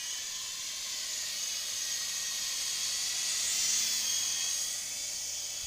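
Syma S031G toy RC helicopter in flight: the high-pitched whine of its small electric motors and spinning rotors, swelling a little about two-thirds of the way through and then easing off.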